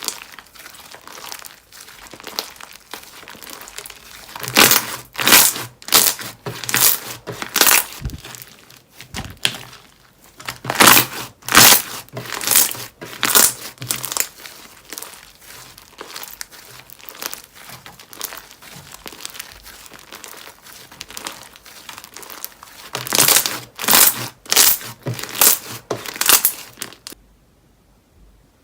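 Slime being squeezed and pressed by hand, giving a steady crackle broken by three spells of loud, sharp crinkling pops. The crackling stops abruptly near the end.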